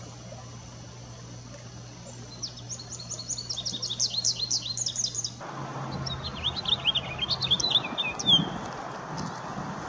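Small songbirds chirping in two quick runs of short, falling notes. The second run is lower than the first and comes after a sudden rise in background noise about halfway through.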